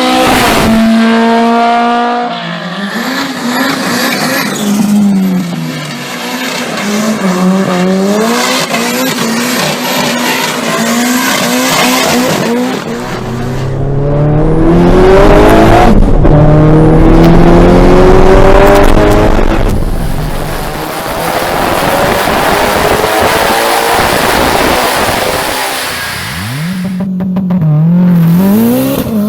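Four-cylinder car engine revving hard under load, its pitch climbing through each gear and dropping at each shift, several times over.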